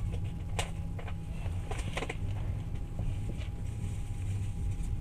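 Passenger train carriage running with a steady low rumble and a faint hum. Scattered clicks and knocks sound through it, the strongest about half a second and two seconds in.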